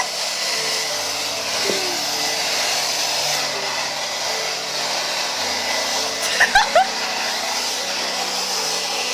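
Hair dryer running steadily, with three short sharp sounds about six and a half seconds in.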